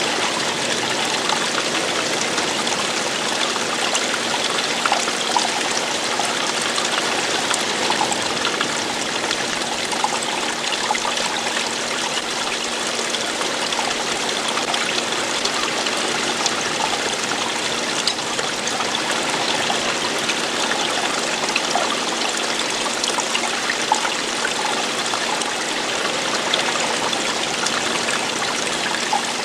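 Running water splashing and trickling over rocks in a stream or small waterfall, a steady even rush with small splashes throughout.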